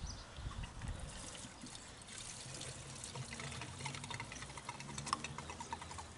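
Liquid being poured from a container into the mower engine, trickling with a run of short gurgles.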